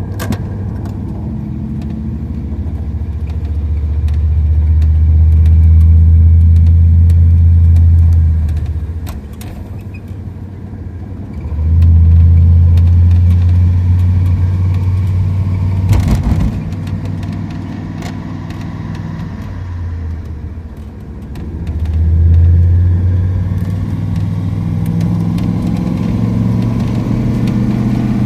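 Car engine and road noise heard from inside the car while driving, a low drone that swells three times as the car accelerates and eases off. A single thump about halfway through.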